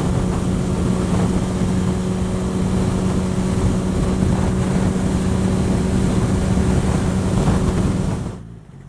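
Riding noise on a motorcycle, a Yamaha XJ6F with a 600 cc inline-four: a steady engine hum under a dense rush of wind on the microphone at road speed. The sound falls away sharply to a much quieter level near the end.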